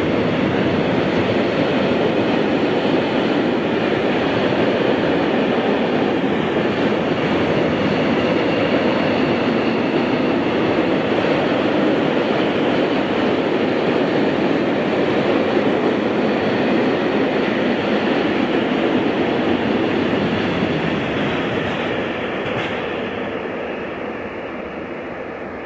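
Freight train of tank wagons rolling past close by, a steady loud noise of wheels on rails that fades from about twenty seconds in as the last wagons pass and draw away.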